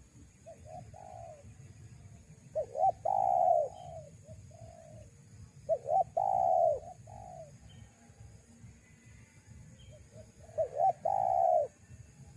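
Spotted dove cooing: three loud phrases, each a couple of quick short notes followed by a longer coo, spaced about four seconds apart, with softer notes about half a second in.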